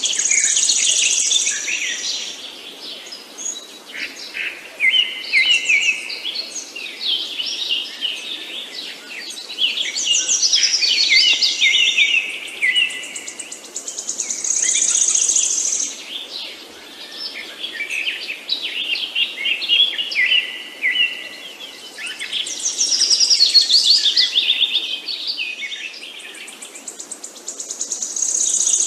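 Songbirds chirping and singing in a busy chorus of varied, quick phrases, rising and falling in bouts, with a high buzzy trill that comes back about every 14 seconds.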